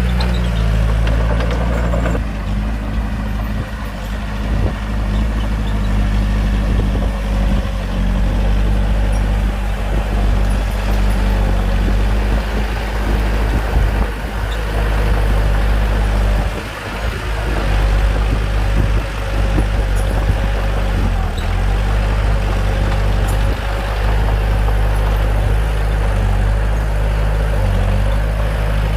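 Bulldozer's diesel engine running steadily under work, its pitch shifting about two seconds in and dipping briefly later on, with faint knocks now and then.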